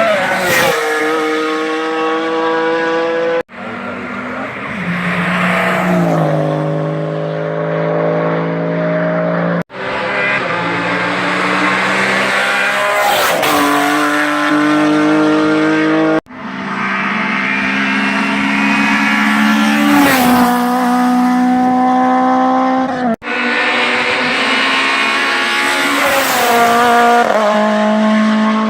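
Race cars on a hillclimb passing one after another at full throttle, in five short clips cut together. In each, the engine note climbs with the revs and then drops sharply as the car goes by.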